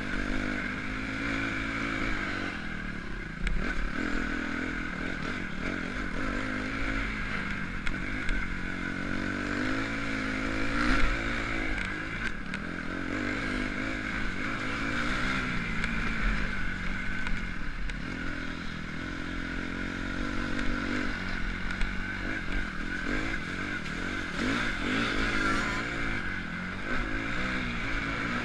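Motocross bike engine revving up and down as it rides the track, the pitch climbing and dropping again every second or two.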